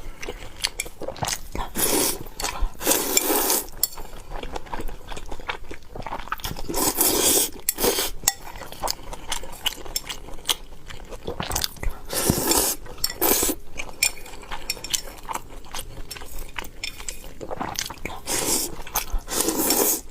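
Close-up eating sounds: utensils clinking against a bowl, with several longer bouts of chewing.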